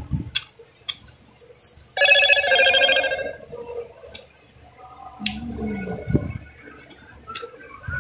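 Wet chewing and mouth sounds of someone eating pomelo segments, with small clicks. About two seconds in, a loud trilling tone sounds for about a second and a half.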